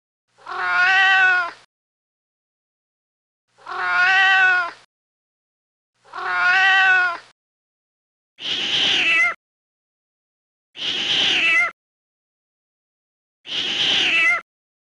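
A cat meowing six times, each meow about a second long with silence between. The first three are clear and rise then fall in pitch; the last three are higher and rougher.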